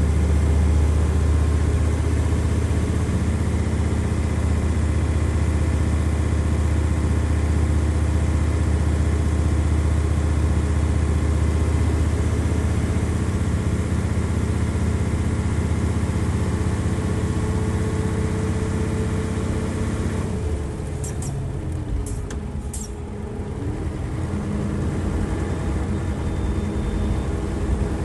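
Nissan Diesel FE92TA turbocharged diesel engine in a bus, running at high revs under load. About twenty seconds in the engine note drops away with a few clicks, the revs fall and climb again, and it pulls back up.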